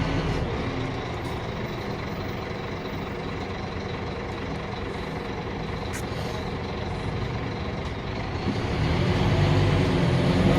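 Scania K310UB city bus's diesel engine running as the bus drives, getting louder over the last couple of seconds as it pulls harder.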